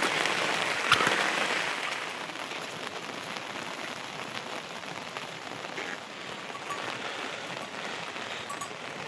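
Heavy monsoon rain falling steadily on surfaces, with a few scattered drips and ticks; one sharp tick about a second in, after which the rain sounds a little softer.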